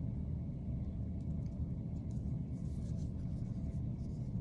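Steady low rumble of background noise, with faint, soft rustling of fingers rubbing and smoothing air-dry clay.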